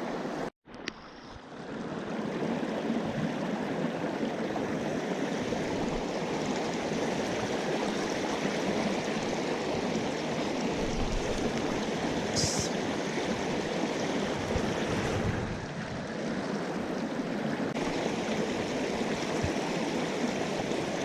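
Mountain stream water rushing steadily over rocks, after a brief break in the sound under a second in; one short high-pitched sound about twelve seconds in.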